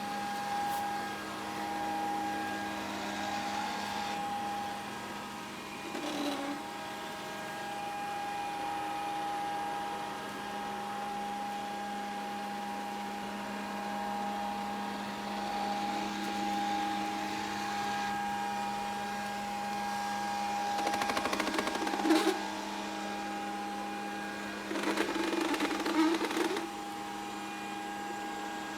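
Grundig VCR 2131 robot vacuum running: a steady motor hum with a whine. Brief louder bursts of noise come about six seconds in and twice more in the last third.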